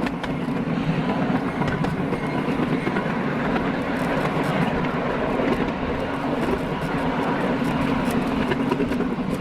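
Train running steadily along its track, with a steady rumble and scattered light clicks from the wheels on the rails.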